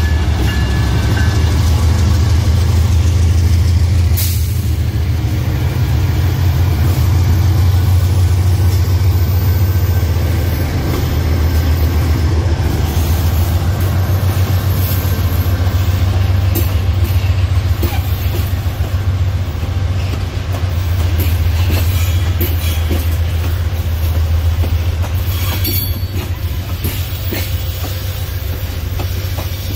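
Diesel-electric freight locomotives running past close by with a steady low engine drone, then loaded hopper wagons rolling by with repeated wheel clicks over the rail joints.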